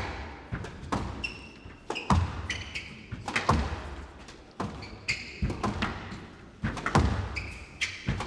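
Squash rally: sharp cracks of rackets striking the ball and the ball hitting the walls, about one every second. Short high squeaks of the players' shoes on the court floor come between them.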